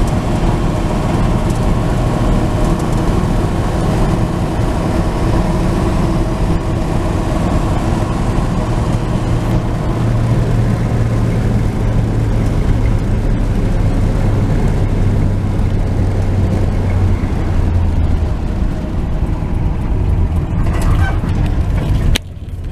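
A 1949 Chevy pickup's 235 straight-six running under way, with road noise, heard from inside the cab. The engine note sinks a little late on, and the sound drops off abruptly near the end.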